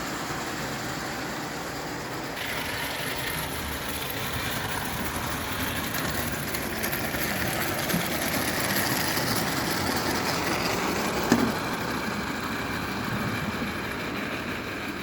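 Märklin live-steam 0 gauge tinplate tank engine running, a steady rush of steam and wheel noise on the track that grows a little louder about two seconds in. A sharp click comes near the end.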